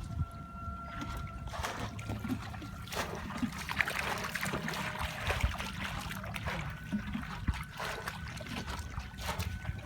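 Shallow water sloshing and splashing in irregular bursts as people wade and grope through it by hand, over a steady low rumble.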